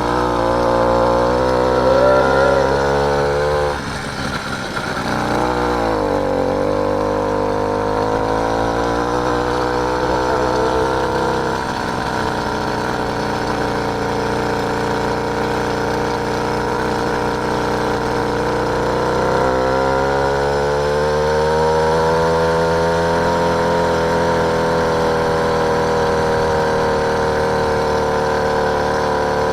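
Small engine of a motorised bike running under way. The revs climb over the first few seconds, drop sharply about four seconds in, climb again and settle, then rise once more about twenty seconds in and hold steady.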